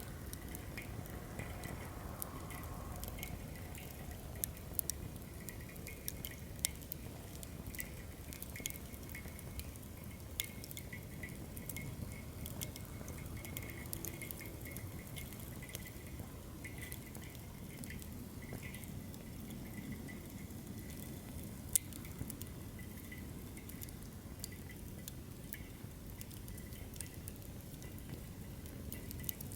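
Wood fire in a fire stand burning steadily: irregular sharp crackles and pops over a low, even flame hiss, with one louder pop a little past the middle.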